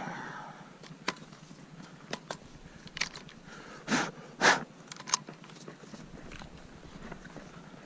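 Two quick, sharp sniffs about half a second apart near the middle, among a few faint scattered clicks and rustles.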